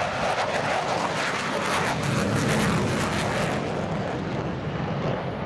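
Jet noise from a JASDF F-15J Eagle fighter passing in flight, a crackling rush that builds to its loudest about two and a half seconds in and then dulls and eases off as it moves away.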